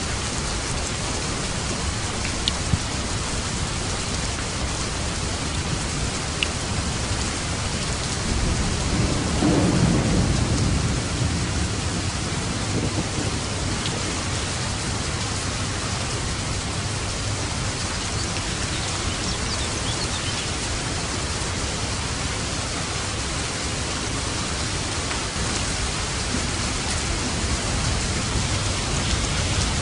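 Steady heavy rain with a roll of thunder rising and fading about a third of the way in, and a few sharp drop hits early on.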